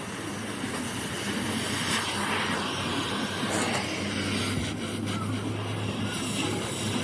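Steady mechanical noise with a low hum that strengthens for a couple of seconds in the middle.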